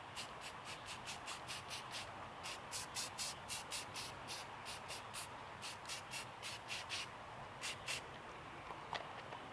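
Aerosol spray paint can giving quick, short hissing bursts, about five a second, in several runs with brief pauses between them.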